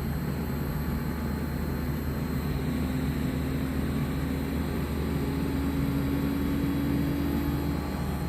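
LG Dual Inverter window air conditioner running steadily, its inverter compressor ramping up from 40 to 50 hertz: a hum that slowly rises in pitch from about two seconds in.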